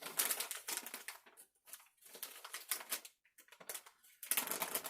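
Plastic cold-pack bag being kneaded and handled, the ammonium nitrate granules mixed with aluminum powder crunching and rustling inside in quick, irregular bursts.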